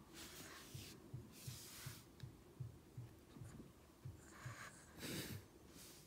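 Shih Tzu puppy breathing and snorting faintly through its short nose, with a few sharper hissy breaths and soft low thumps about three a second.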